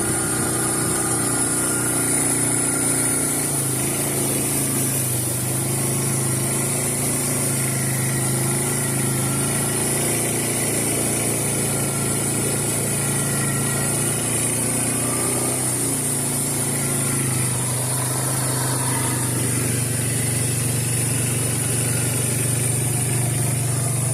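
Suzuki Eiger 400 ATV's single-cylinder four-stroke engine running at low, fairly steady revs, its pitch shifting slightly a few times.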